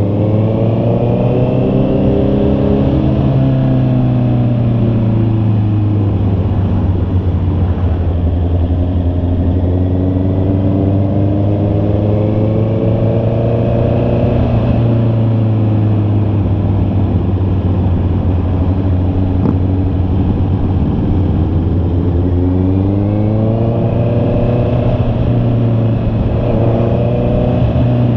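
Honda CB650R's inline-four engine under way. Its note climbs and drops several times as the bike accelerates and eases off, with steadier cruising stretches in between.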